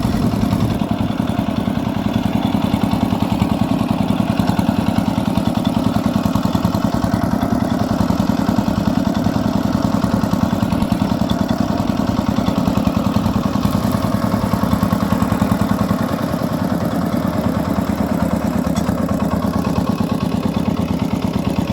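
Micro tractor (two-wheel walking tractor) engine running steadily under way, towing its trailer cart, with an even rapid chugging.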